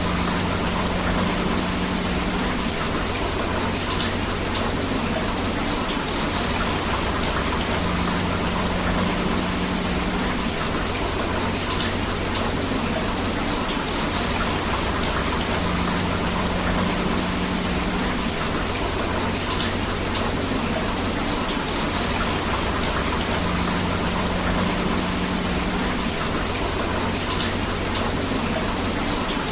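Steady rain together with rushing river water: a dense, even hiss with no let-up. A faint low hum comes and goes about every eight seconds.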